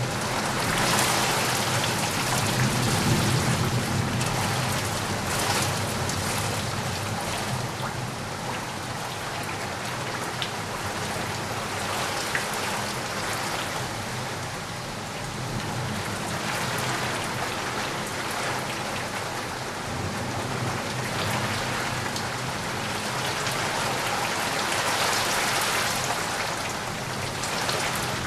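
Steady rain falling, an even hiss that swells and eases in slow waves.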